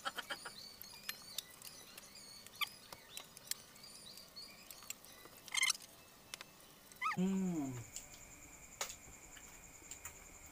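Mouth sounds of eating crispy fried buff-banded rail with rice by hand: scattered chewing clicks and lip smacks, with a short burst of quick smacks about halfway. About seven seconds in, a short pitched sound falls steeply, and a faint steady high tone follows.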